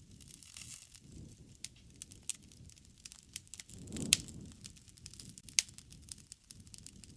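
Wood fire crackling, with many sharp pops and ticks over a soft low rumble of flames; the loudest pop comes about four seconds in.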